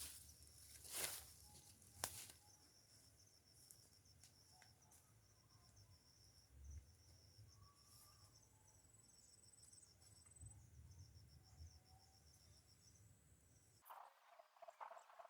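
Faint insect chirping: a high, evenly pulsed trill, with two sharp knocks in the first couple of seconds.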